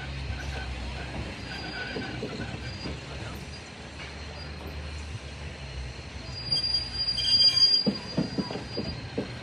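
Railroad car wheels rolling along the track with a steady low rumble. About two-thirds of the way through, a loud, high-pitched wheel squeal sets in, and it is the loudest sound here. A few knocks come near the end.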